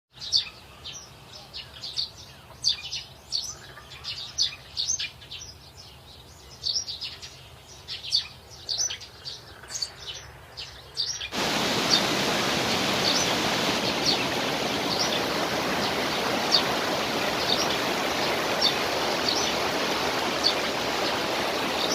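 Many small birds chirping in quick short calls, then, about halfway through, an abrupt cut to the steady rush of a waterfall, with a few bird chirps still heard over it.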